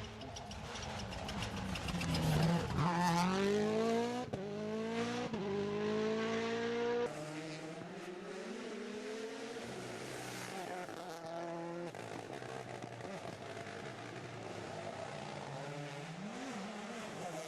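Rally car engine accelerating hard, its pitch climbing and falling back several times as it shifts up through the gears. Just after seven seconds the level drops suddenly and the engine note continues more quietly and evenly.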